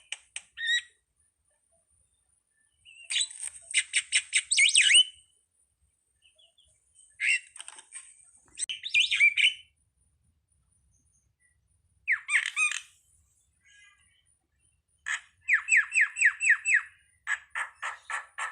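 Jalak (starling) song: bursts of quick repeated chattering notes, each burst about one to two seconds long, with short pauses between them.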